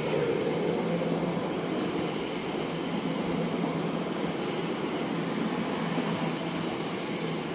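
Class 345 electric train passing: a steady running noise of wheels and rails with a low steady hum, easing slightly near the end.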